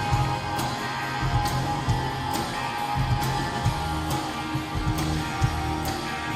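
Live rock band playing an instrumental passage: electric guitars over bass and drums, with a steady drumbeat.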